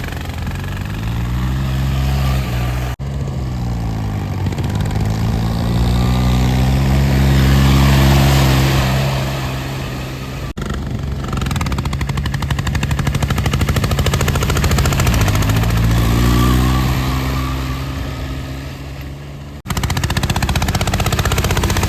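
Diesel tractor engine running under load, its speed dipping and climbing again several times, with abrupt breaks where the sound cuts.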